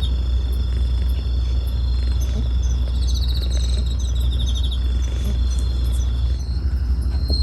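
Night insects, crickets, chirping: a steady high-pitched ringing with a pulsed trill about three seconds in, both stopping about five seconds in. Underneath runs a louder steady low rumble.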